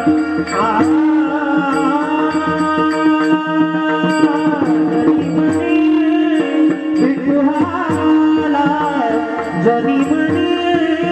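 Marathi kirtan folk music: a steady held drone with a sliding melody above it, and small hand cymbals ticking in time.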